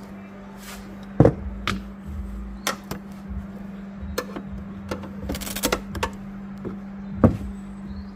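Scattered clicks and knocks of hands and tools working loose a car's plastic trim, two sharper knocks standing out, over a steady low hum.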